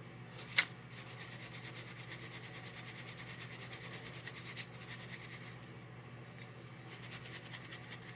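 Shine brush buffing a polished toy locomotive shell in rapid back-and-forth rubbing strokes, with one sharp click just before the brushing starts. The strokes pause about halfway through and resume briefly near the end.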